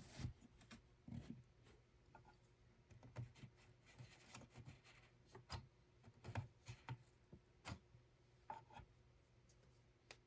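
Faint, irregular small clicks and light knocks of hands handling small objects, over a low steady hum.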